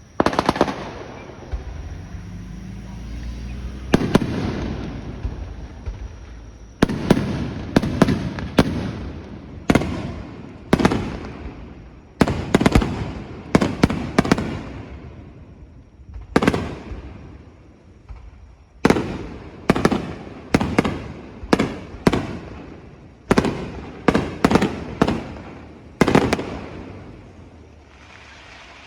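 Aerial fireworks bursting overhead, one sharp bang after another, each followed by a rolling echo that dies away. The bangs come irregularly, often in quick runs of three or four.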